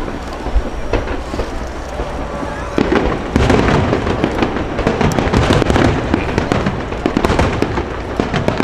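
Aerial firework shells bursting in a finale barrage: a dense run of overlapping booms and crackles that thickens and grows louder about three seconds in.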